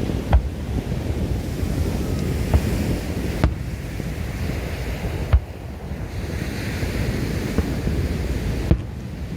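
Fireworks going off: a handful of sharp bangs spread a second or two apart, over a steady rush of wind on the microphone and surf.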